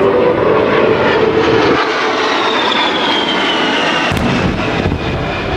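An A-10 Thunderbolt II's twin TF34 turbofans roaring past low, their whine falling in pitch as the jet goes by, then about four seconds in a sudden pyrotechnic blast simulating a bomb hit, followed by a deep rumble.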